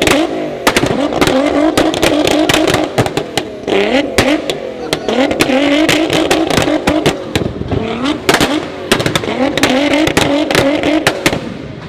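A tuned car's engine revved hard several times, its pitch climbing and dropping, with a rapid string of sharp pops and bangs from the exhaust.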